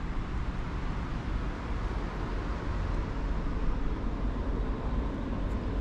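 Diesel locomotives of an approaching CSX freight train running at full throttle, still out of sight: a low, steady sound slowly growing louder.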